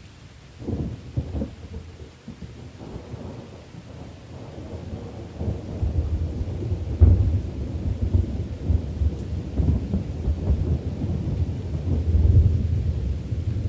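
Rolling thunder with steady rain: a crackling rumble starts about a second in, then a deeper, longer rumble builds with peaks around the middle and near the end.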